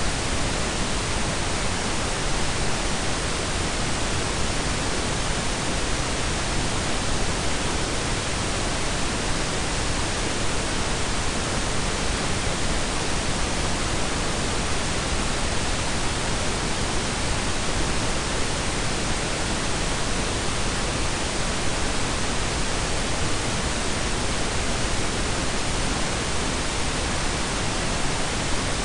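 Synthetic pink and brown noise blended together: a steady, even hiss with a deep rumble beneath it, unchanging throughout.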